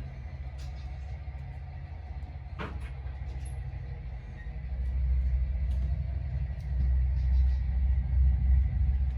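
HO-scale model trains running on the layout: a steady low rumble that swells about halfway through and grows loudest near the end, with one sharp click a little before the middle.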